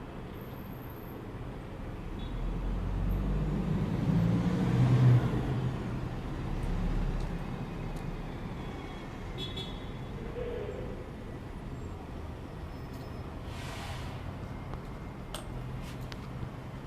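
A passing motor vehicle: a low rumble that swells to a peak about five seconds in and then fades, over a steady low hum.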